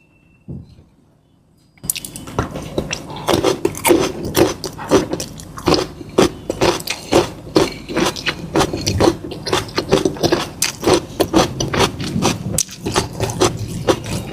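Close-miked eating sounds: wet, rapid, irregular mouth clicks and smacks of chewing, starting about two seconds in after near quiet.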